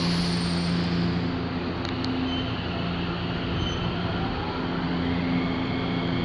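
Odakyu 2000 series electric commuter train running past, with steady wheel-on-rail noise and a steady low drone from the train.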